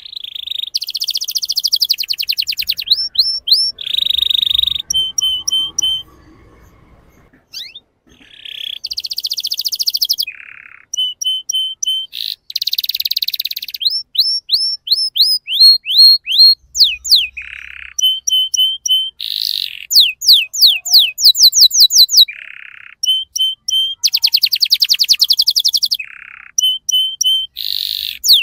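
Young male domestic canary singing: phrases of fast trills, runs of rapid down-sweeping whistled notes and buzzy rolls, with a pause of about two seconds some six seconds in.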